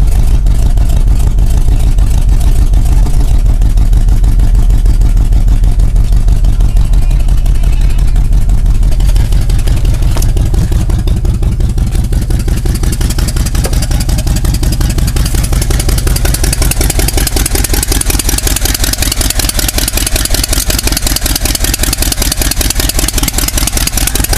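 1987 GMC 2500's 350 small-block V8, carbureted with a Holley 650, running loud with a steady beat of firing pulses just after a cold start. About nine seconds in, the low rumble eases and the sound turns brighter and hissier.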